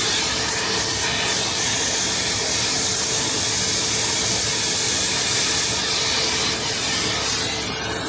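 Oxy-fuel cutting torch hissing steadily as it cuts through a steel bracket on a truck chassis. The hiss fades near the end.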